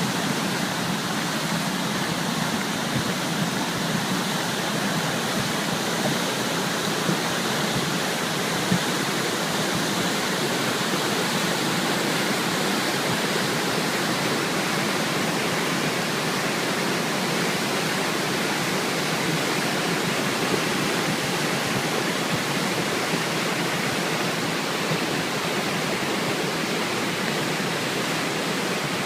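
River swollen with typhoon floodwater, rushing steadily in a continuous wash of water noise.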